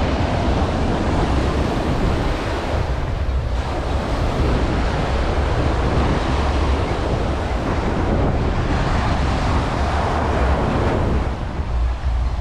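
Ocean surf washing onto the beach, with wind buffeting the microphone in a heavy low rumble.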